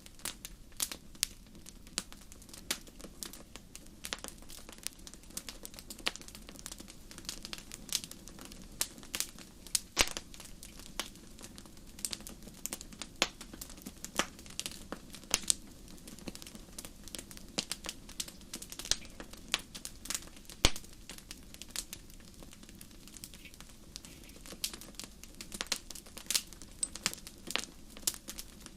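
Wood campfire crackling, with dense irregular pops and snaps over a low steady rumble; the loudest pops come about ten seconds in and again about twenty seconds in.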